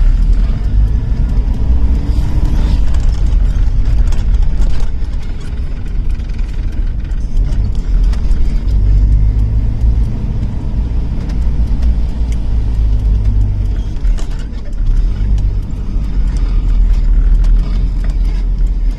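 Toyota Tamaraw FX's 5K four-cylinder petrol engine and road noise while driving, a steady low rumble with scattered light clicks and rattles.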